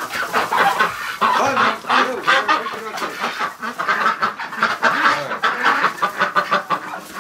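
A flock of domestic ducks and geese calling, many short calls overlapping without a break.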